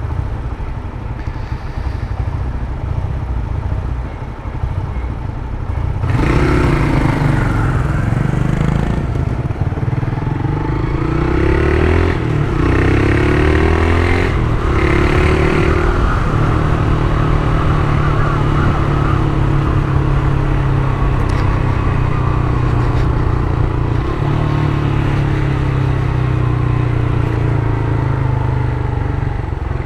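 Honda CG Titan 150 single-cylinder engine through an aftermarket Turuna exhaust, idling quietly at first. About six seconds in it gets loud and accelerates through the gears: the pitch climbs and drops back four times at the shifts. It then holds a steady cruise that eases off slowly.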